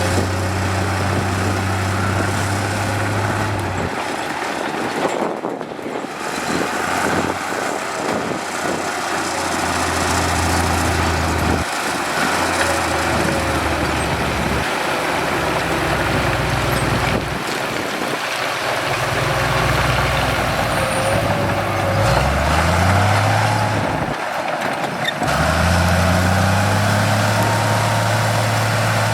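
Diesel engines of heavy construction machinery running, the engine sound changing abruptly several times, with the engine revving up twice in the last third.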